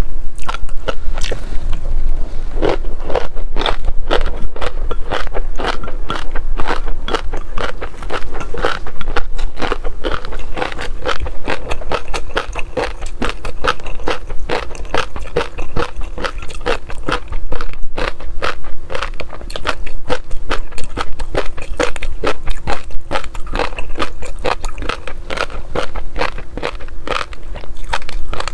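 Close-miked eating sounds: a dense, continuous run of crisp crunches and chewing as shrimp and crunchy snacks are bitten and chewed.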